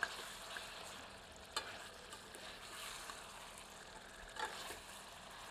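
Kadaknath chicken pieces and masala sizzling faintly as they are sautéed in a steel pressure cooker, with a ladle stirring through them and a few light knocks against the pot. The chicken's own water has cooked off, so the meat is now frying in oil and masala (the bhuna stage).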